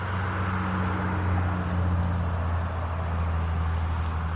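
A steady low motor hum with a rushing noise over it, swelling a little about two seconds in and easing near the end.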